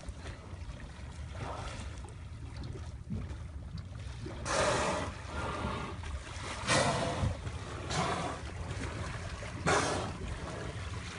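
A boat's engine idling with a steady low hum, broken by about five short rushes of noise.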